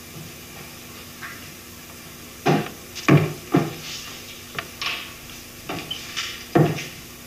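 A quiet stretch, then from about two and a half seconds in a run of uneven sharp knocks and thumps on wood, several of them, like wooden furniture or objects being handled.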